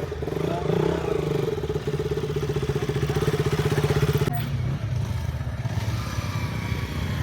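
Motorcycle engine running with a fast, even pulse, cutting off abruptly about four seconds in, leaving a lower rumble behind.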